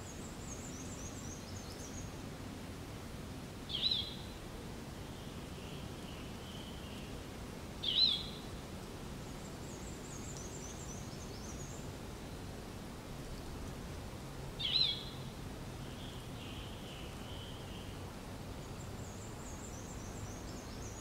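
Birds calling over a steady background hiss: a high run of quick chirped notes comes three times, and a louder, sharp call rings out three times, each followed by softer notes.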